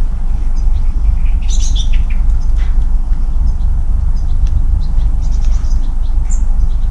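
Small birds chirping: a cluster of high chirps about one and a half seconds in and more around five to six seconds in, over a loud, steady low rumble.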